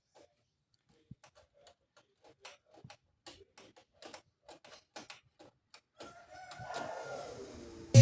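Sony LBT 3-in-1 stereo system's output with no music: soft, irregular clicks and pops, then from about six seconds in a rising hiss with a few gliding whistle tones, like static from a tuner between stations.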